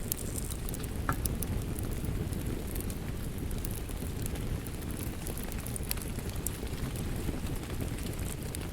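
Wood fire crackling, with scattered sharp snaps and pops, over a steady low rush of rain.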